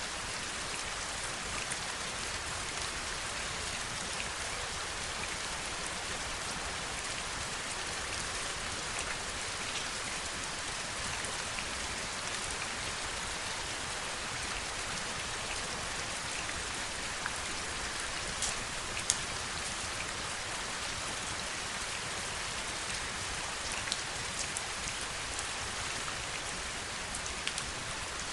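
Heavy rain falling steadily: a dense, even hiss with individual drops ticking through it, a few of them louder, in the second half.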